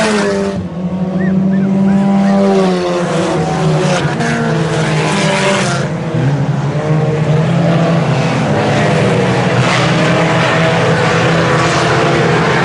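A pack of IMCA Sport Compact race cars racing at speed, several four-cylinder engines running hard at once. Their pitches rise and fall and overlap as the cars pass.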